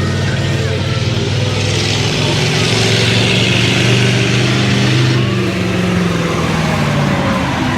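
A monster truck's big engine running, holding a steady low pitch, with a broad rushing noise that swells about a second and a half in and drops away about five seconds in.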